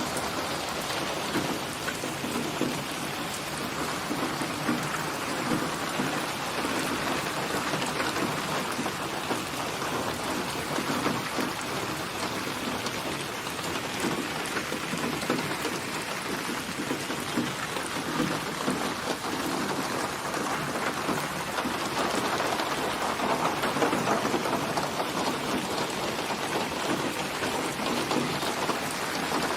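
Steady rain falling: a dense patter of drops, growing a little louder about three quarters of the way through.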